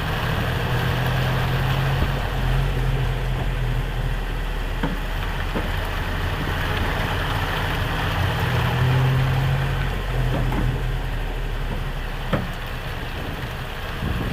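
Vehicle running with a steady engine hum and road noise, and a handful of sharp clicks from the leaf spring, the loudest near the end. The clicking is presumed to come from U-bolts that are not fully tightened.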